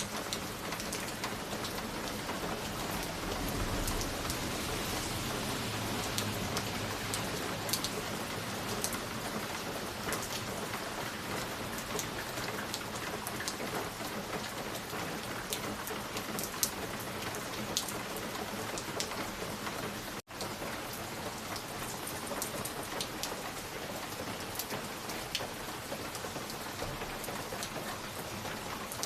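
Fireplace fire crackling: a steady hiss with scattered sharp pops and ticks. The sound cuts out for an instant about twenty seconds in.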